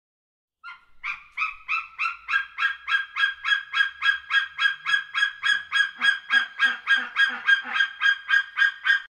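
A bird calling a long, rapid series of honking notes, about three a second, all on much the same pitch.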